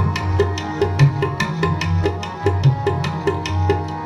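Tabla playing a quick, even rhythm, with deep bass drum strokes swelling underneath, over held instrumental notes: an instrumental passage between sung lines of kirtan.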